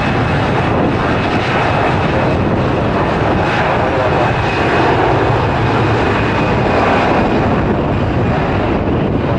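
Airbus A320-214 jet engines running loud and steady on take-off.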